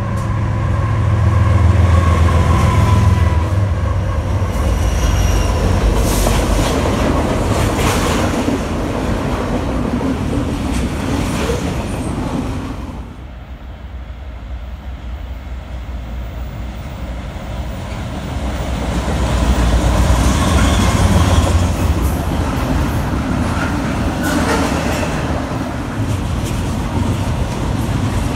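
BNSF diesel freight locomotives passing close by under power, with a heavy low engine rumble that peaks about two seconds in, then the rolling clatter of the cars. About halfway through it cuts to a quieter stretch. Another train's locomotive then builds to a second peak as it passes, followed by intermodal cars clattering over the rails.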